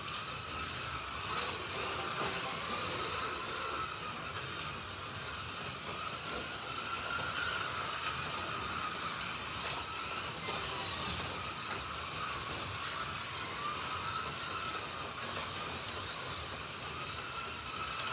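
Slot.it slot cars (Alfa Romeo T33s and a McLaren M8D) racing around the track: the whine of their small electric motors rises and falls in pitch as they speed up and slow through the turns, over a steady rumble of the cars running in the slots.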